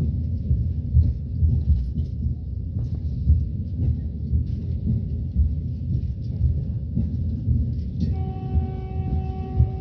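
Train running, a steady low rumble heard from inside the carriage. About eight seconds in, a horn starts one long steady note that is still sounding at the end.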